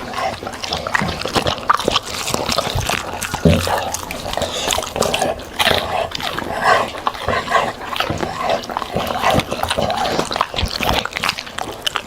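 A dog eating, chewing with irregular wet smacking and crunching sounds.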